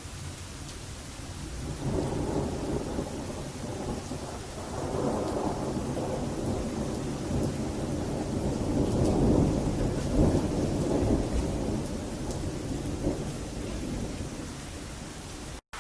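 Thunder rumbling over steady rain: the rumble builds about two seconds in, swells twice through the middle and dies away near the end.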